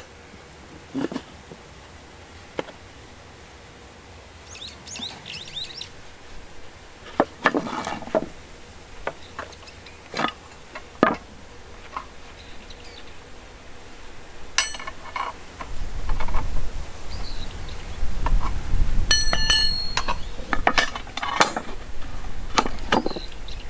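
Steel rebar clinking and knocking as it is handled and worked, in a scattered series of sharp metallic knocks. Twice a piece rings out with a clear metallic tone, once about two-thirds of the way in and more strongly soon after. A low rumble runs under the later part.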